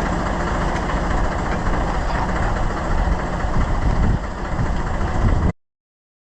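Volvo BM Buster 320 tractor's engine running steadily under work, with a few louder surges near the end, then the sound cuts off suddenly to complete silence about five and a half seconds in.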